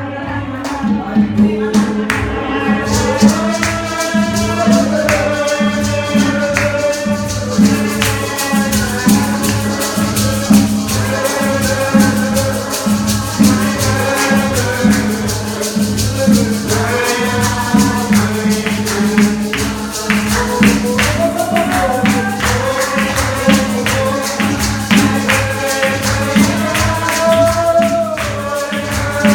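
Church worship music: a sung melody over a steady bass with a fast, even percussion beat from a shaken hand instrument such as a tambourine.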